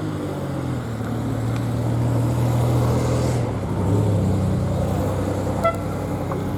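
A car engine running close by, a low steady hum that grows a little louder through the middle and eases off again. There is a brief click near the end.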